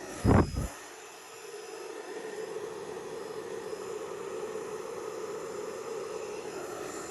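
Hairdryer running steadily, blowing air to spread poured acrylic paint across a canvas. A single loud thump comes just before it settles into its even whoosh.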